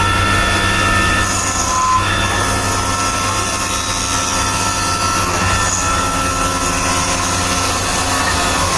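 Workshop machinery running steadily with a constant low hum and a few steady whining tones.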